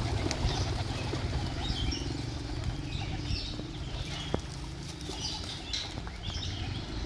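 Pigeon squab giving short, faint high squeaks every second or so, over a steady low background rumble.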